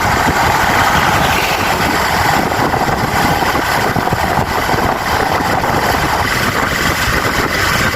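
Motorcycle on the move, its engine running steadily under continuous road and wind noise.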